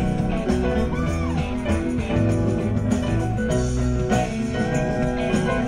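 Live rock band playing an instrumental stretch between sung lines, with guitar prominent.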